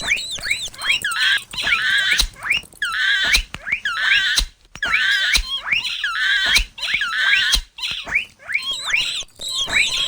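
Mouse squeaking sound effect: clusters of high, quick chirping squeaks with sharp clicks, repeating every second or two.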